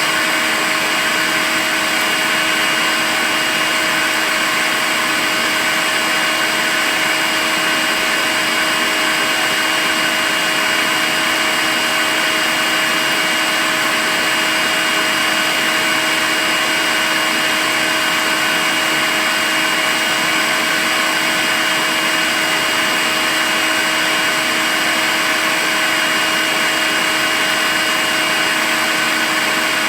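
Makita cordless stick vacuum cleaner running continuously: a steady whine of its motor over an even rush of air, with no change in speed.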